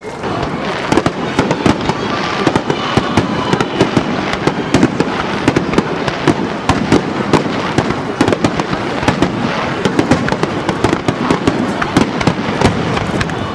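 Fireworks display: aerial shells bursting in quick succession, a dense, unbroken run of sharp bangs with no pause.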